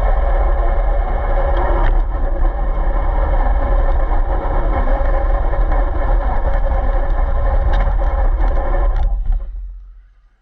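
Radio-controlled car running and driving, with a steady motor sound and heavy low rumble, then cutting off about nine seconds in and quickly fading away.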